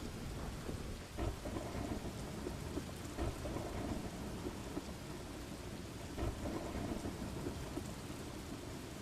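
Steady rain falling with a low, continuous thunder rumble, swelling briefly a few times: thunderstorm ambience.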